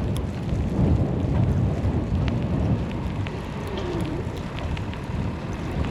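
Snowstorm wind buffeting the microphone: a steady, uneven low rumble, with scattered faint ticks over it.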